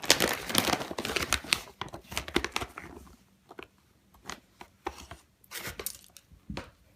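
Packaging being crinkled and rustled, dense for about three seconds, then in scattered short crackles.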